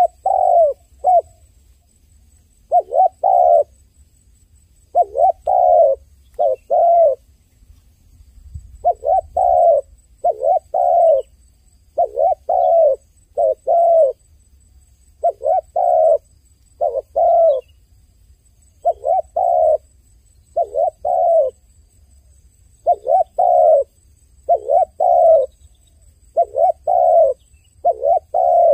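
Dove cooing: short phrases of two or three coos, repeated every one and a half to two seconds.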